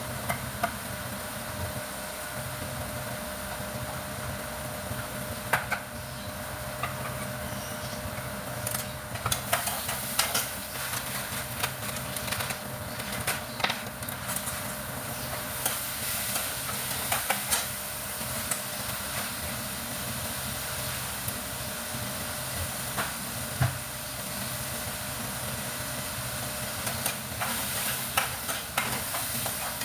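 Food sizzling in a frying pan while a utensil stirs and scrapes it, with clinks coming in busy spells, over a steady hum.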